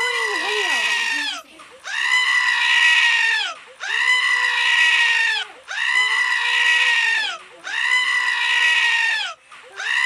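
An annoying-sounds recording playing on a loop: a long, high-pitched cry of about a second and a half, repeating identically about every two seconds.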